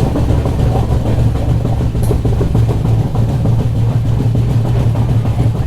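Passenger train running at reduced speed, heard from aboard: a steady low rumble of wheels on rails with a dense run of small knocks.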